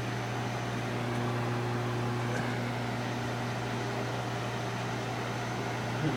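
Microwave oven running: a steady low hum with fan noise.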